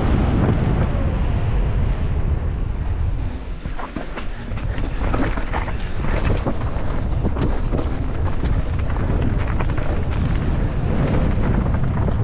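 Wind buffeting the microphone of a mountain biker's action camera during a fast descent, a loud steady rumble. From about four seconds in, many short clattering knocks and rattles come through it, as the bike runs over rough ground.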